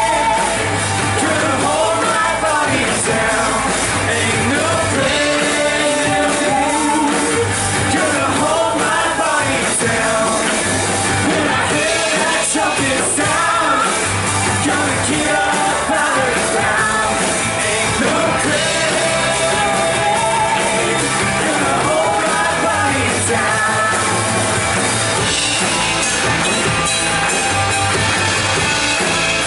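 Rock-style band music with a singer: a contemporary worship song, with repeating bass notes under the sung melody.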